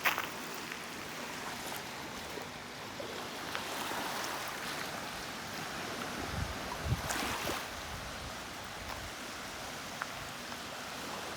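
Small lake waves washing steadily on a shell-strewn shore, with wind. A brief louder rustle with low thumps comes about seven seconds in.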